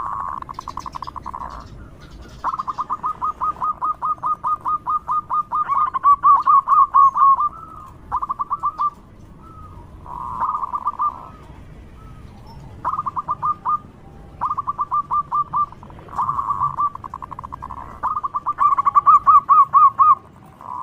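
Zebra dove (perkutut) calling: rapid staccato cooing trills in repeated bouts of one to two seconds with short pauses between them. Two bouts, about six seconds in and near the end, are the loudest.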